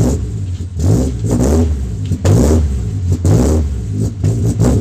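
Honda Civic engine running and being revved in repeated blips, about one a second. It runs again after the original distributor cap was refitted in place of a replacement cap the mechanic doubted.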